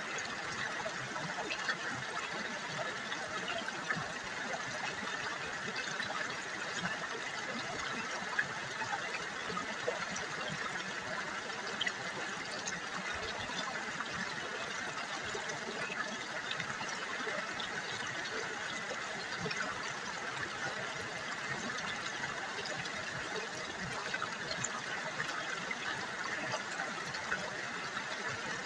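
River water gurgling steadily, an even rush with small splashes and plops scattered through it.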